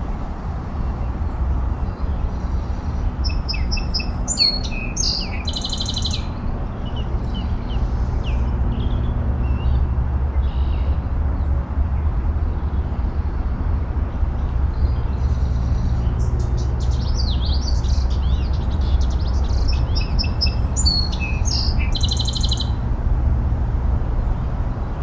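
A songbird singing twice, about eleven seconds apart: a run of quick chirps, each time ending in a short buzzy trill. A steady low rumble runs underneath.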